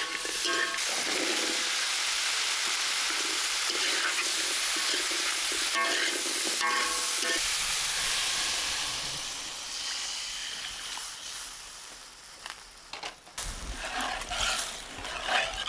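Chicken and vegetables sizzling in a hot wok as they are stirred with a metal ladle. About eight seconds in, water is poured in and the sizzle dies away, giving way to ladle knocks and stirring in the broth near the end.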